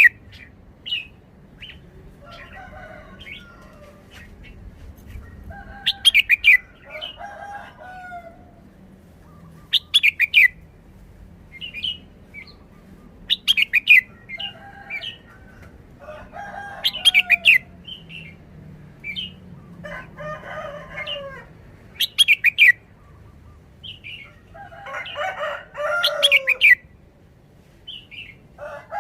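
Caged red-whiskered bulbul singing: short, loud, clear whistled phrases repeated every three to four seconds, with softer, lower warbling calls in between.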